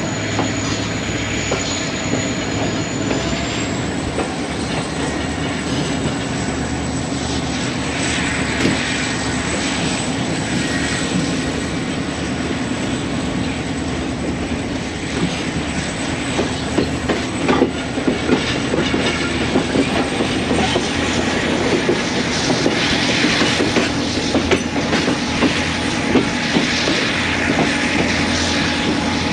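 A train rolling through, its wheels clattering steadily over the rail joints; the clatter gets louder and more uneven a little past halfway.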